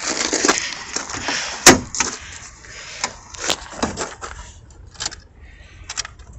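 Scattered clicks, knocks and rattles of handling at a car, with a sharp knock about a second and a half in.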